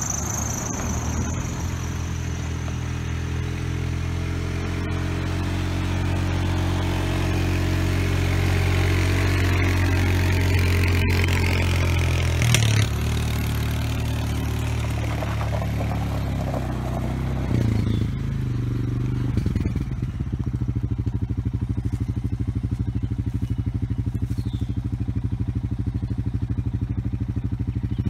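Small off-road utility vehicle engine running continuously as it works a land planer through ditch dirt. Its pitch shifts a little before halfway and again a few seconds later, then it settles to a steady, even beat.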